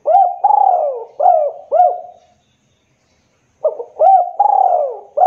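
Spotted dove (tekukur) cooing: two phrases of four or five arching coo notes each, with a pause of about a second and a half between them.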